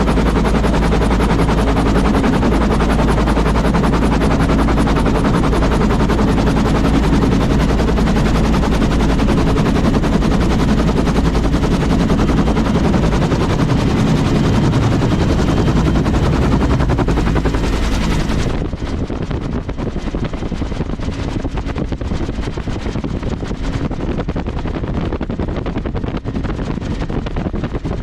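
Aircraft engine running loud and close, a heavy low rumble with a rapid, even pulsing beat. About two-thirds of the way through the high end drops away suddenly and the sound becomes a little quieter.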